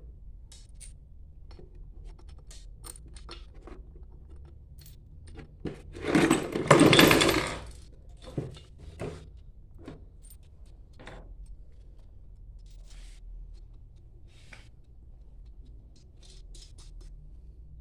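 Metal tools and pump parts clinking and knocking as they are handled during reassembly, with a louder metallic scraping clatter lasting about two seconds around six seconds in. A faint low hum runs underneath.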